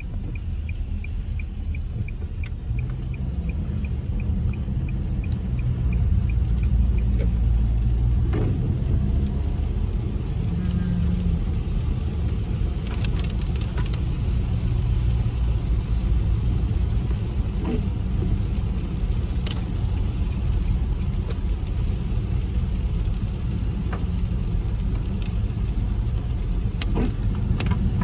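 Car driving on a rain-wet road, heard from inside the cabin: a steady low rumble of engine and tyres. A light, regular ticking runs for the first seven seconds or so, with scattered short clicks throughout.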